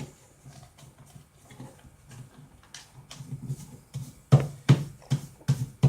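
A sheet of paper being folded and creased by hand: light rustling, then a run of sharp crisp taps about two or three a second in the second half as the folds are pressed flat.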